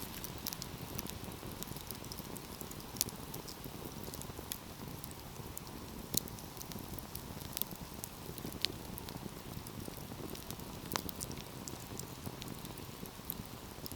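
Wood fire crackling: a steady low rush of burning with scattered sharp pops and snaps at irregular intervals.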